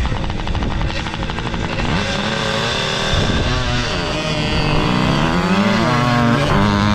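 Motorcycle engines racing, revving up and down, their pitch rising and falling repeatedly; the sound grows a little louder toward the end.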